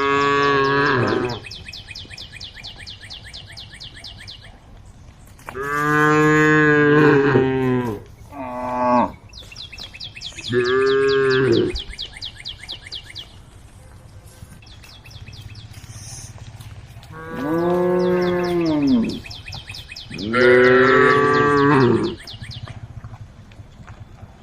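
Cows mooing, calling to the herd: about six long moos, some in quick succession, each one rising and then falling in pitch.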